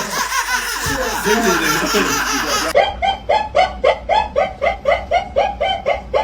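Person laughing: a jumble of laughter, then, about three seconds in, a run of short, evenly spaced laugh bursts, about three a second.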